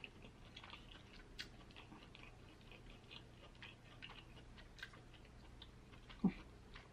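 Faint, close-miked mouth sounds of chewing seafood, with scattered small wet clicks and smacks. A louder short thump comes near the end.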